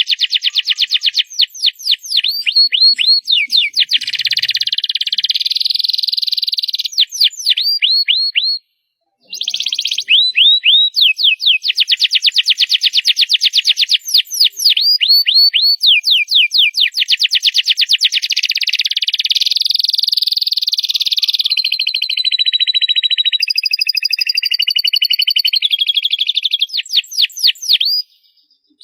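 Domestic canary singing loudly: rapid trills and rolls of high, fast-repeated notes and quick series of downward-sweeping notes, with a brief pause about nine seconds in and again near the end.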